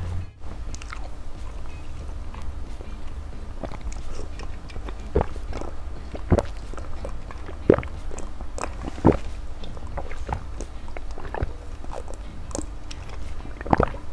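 Mouth sounds of a person eating: chewing, with scattered sharp smacks and clicks, and sips from a bowl, over a steady low hum.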